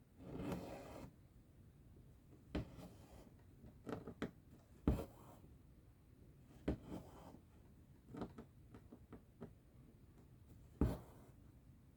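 Hand cross-stitching: the needle pokes through the cross-stitch fabric in short, sharp taps, and the thread is drawn through with a soft rasp, irregularly every second or two. The longest pull comes right at the start.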